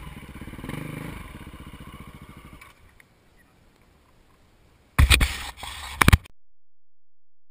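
Dirt bike engine running, fading away within the first three seconds. Near the end come two loud, sudden bursts of noise, then the sound cuts off to dead silence.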